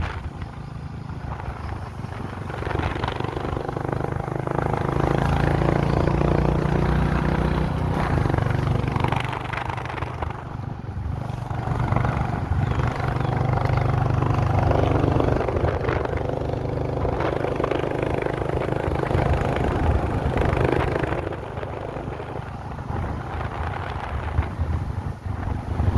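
A vehicle's engine running while driving, its level and pitch swelling and easing as it goes, with a dip a little after twenty seconds.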